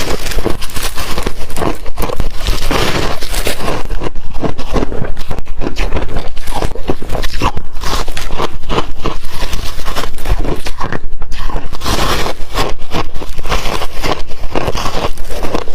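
Ice being crunched between the teeth close to the microphone: a steady, loud run of sharp crunches, several a second.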